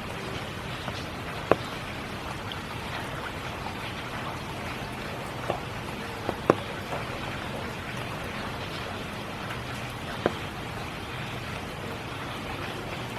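Steady spring rain falling, an even hiss, with a few sharp, louder drop hits close by, about five of them, the loudest a little after halfway.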